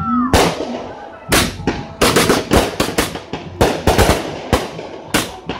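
Fireworks show: aerial shells bursting overhead in a quick series of loud bangs, more than a dozen, coming faster from about two seconds in. A shell's whistle trails off at the very start.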